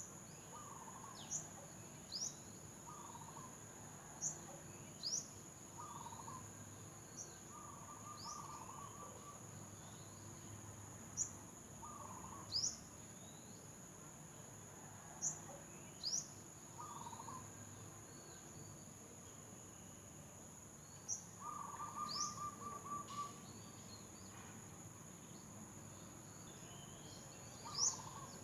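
Outdoor nature ambience: a steady, high-pitched insect drone, with a bird giving short, sharp chirps every few seconds and a few brief trills.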